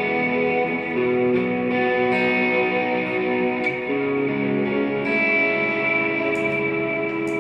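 Electric guitar played through delay and reverb pedals, ambient worship style: slow, sustained chords that ring into each other and change about once a second.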